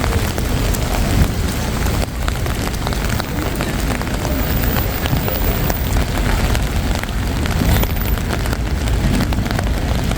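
Steady wet-evening city street ambience: a continuous hiss over a heavy low rumble, with no clear single event standing out.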